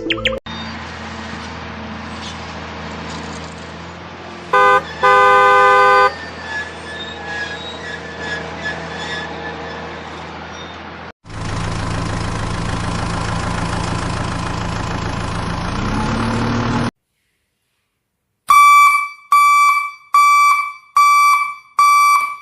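Vehicle engine running steadily with two loud horn blasts about five seconds in. After a short break a second engine runs, its pitch rising near the end. Then, after a pause, five short horn honks in a row.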